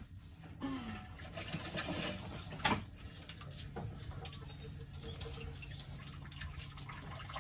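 Faint wet stirring of a batter of milk, egg, cornstarch and flour in a bowl, being mixed until smooth, with a single light knock about two and a half seconds in.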